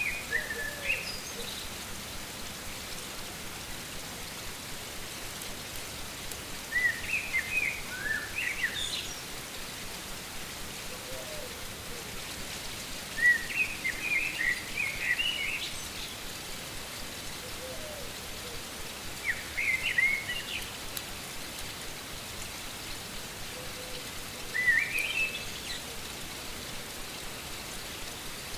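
Steady rushing of a fast-flowing stream, with a songbird singing short chirping phrases about every five or six seconds over it.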